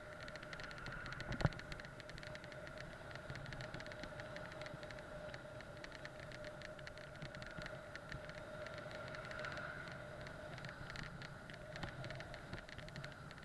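Bike riding noise on the road: a steady hiss with two steady tones, many rapid small clicks and rattles, and one sharp knock about a second and a half in.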